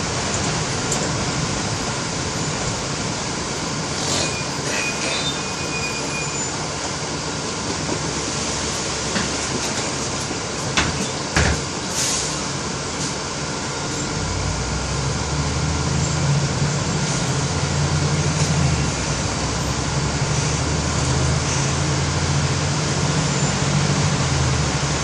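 Steady noise of a moving bus in heavy rain, with a couple of sharp knocks midway. About halfway through, the bus engine's low hum comes in and runs louder to the end.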